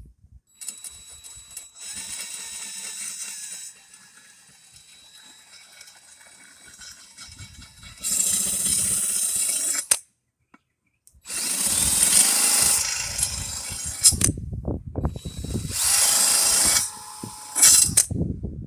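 A power drill spinning a sharpening stone ground along the edge of a new lawn mower blade, in runs of a few seconds that start and stop sharply, with the loudest runs in the second half.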